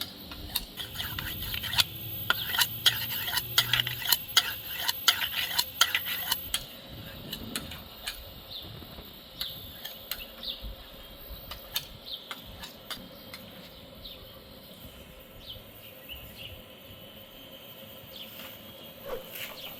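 Kitchen utensils clinking and scraping against a pot or dishes: a quick, busy run of clicks for about the first six seconds, then only an occasional click.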